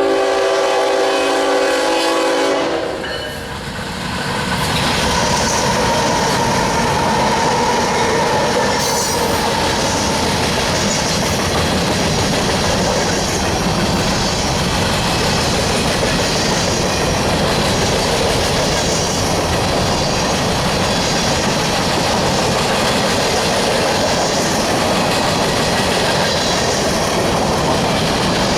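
A freight train's horn sounds a steady chord that cuts off about three seconds in. Then the train rolls past steadily, its wheels clattering over the rail joints.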